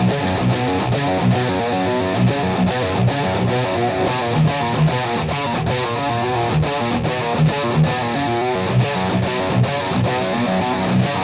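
Distorted electric guitar in drop B tuning playing a heavy rhythm riff of steady repeated chords through a Seymour Duncan bridge humbucker, double-tracked with no EQ.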